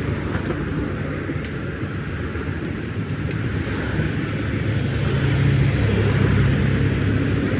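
A heavy engine running steadily, growing louder about five seconds in, with a few faint clicks over it.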